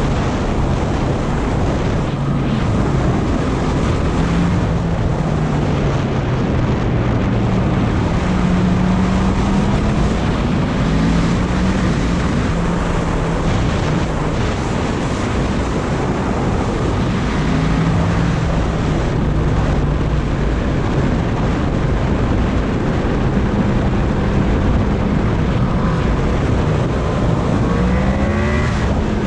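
Yamaha MT-10's crossplane inline-four engine running under way, its pitch rising and falling with the throttle and climbing quickly near the end, under heavy wind buffeting on the microphone.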